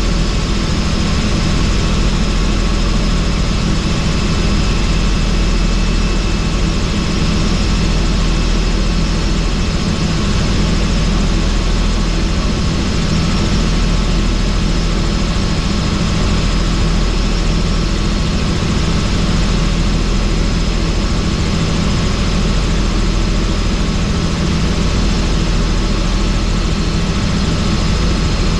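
Helicopter in flight with the doors off: loud, steady rotor and engine noise with a few thin, steady high whine tones above it.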